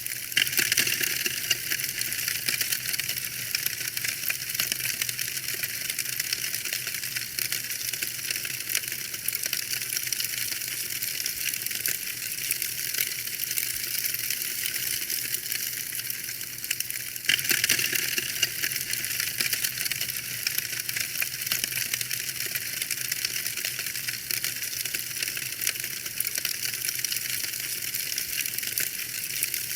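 Wood fire in a fireplace crackling steadily, a dense run of small snaps, with louder flurries of crackles about half a second in and again about 17 seconds in.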